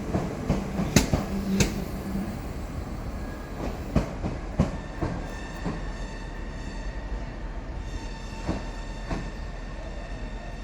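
Pair of Class 387 electric multiple units moving through the station, wheels clicking and knocking over rail joints. A steady high whine sets in about four seconds in.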